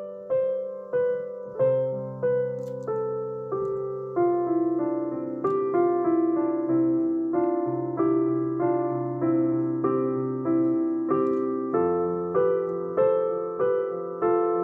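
Solo piano music: a slow, gentle piece of evenly paced single notes, about three every two seconds, each fading before the next, over held bass notes.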